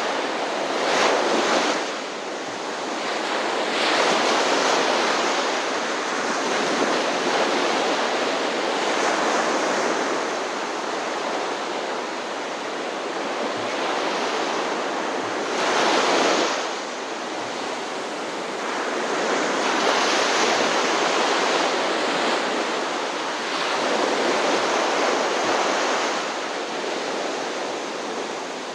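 Ocean surf: waves breaking in a steady rush that swells and eases every few seconds.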